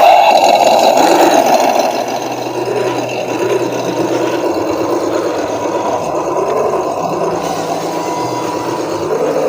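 Electric motor and gear drive of a small RC off-road car whirring as it drives, the pitch rising and falling with the throttle. It starts abruptly and is loudest for the first two seconds.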